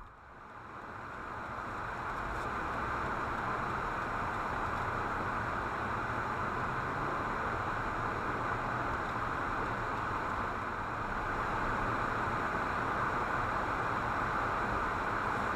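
Steady road and tyre noise heard from inside a moving car, fading up over the first couple of seconds and then holding level.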